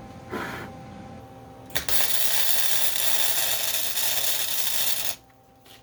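Electric welding arc crackling through one steady bead of about three seconds, starting sharply nearly two seconds in and cutting off suddenly. A short rustle comes before it.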